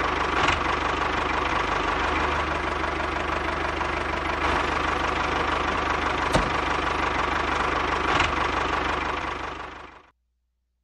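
A small engine running steadily with a fast, even beat, a few sharp clicks over it, fading out near the end.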